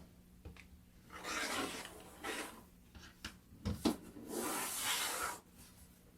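Fabric being trimmed with a cutting blade: two scraping strokes about a second long each, with a few short knocks, as of a ruler being set down, between them.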